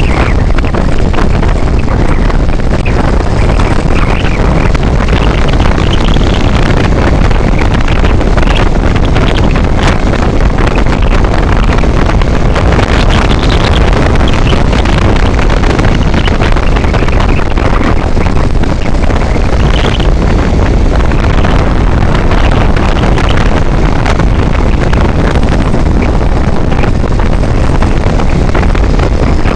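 Steady, loud wind buffeting on the microphone of a vehicle travelling along a highway, with road and engine noise underneath.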